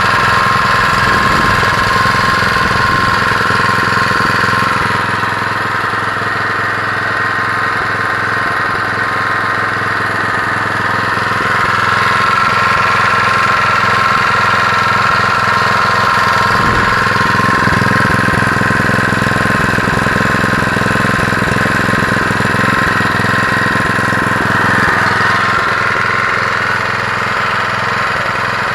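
Honda GX120 single-cylinder four-stroke petrol engine running steadily on test, its loudness dipping a little about five seconds in, picking up again around twelve seconds and easing slightly near the end.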